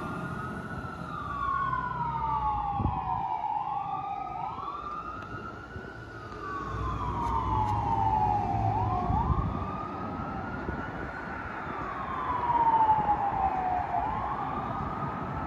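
Fire engine siren in a wail pattern: each cycle rises quickly and falls slowly, about every four seconds, with two wails overlapping slightly out of step. A low vehicle rumble sits underneath.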